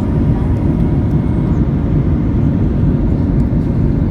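Steady low roar of a Boeing 737-800 in flight, its engines and airflow heard as an even rumble.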